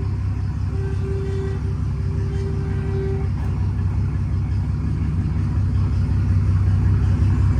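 Straight-piped pickup truck engine with dual exhaust, idling and pulling at low speed with a steady deep rumble that builds slightly toward the end. A faint steady tone sounds for a couple of seconds about a second in.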